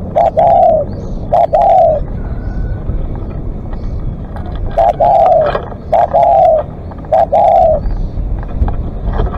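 Spotted dove cooing: two phrases of loud, falling coos, each about half a second long, with a pause of a few seconds between the phrases.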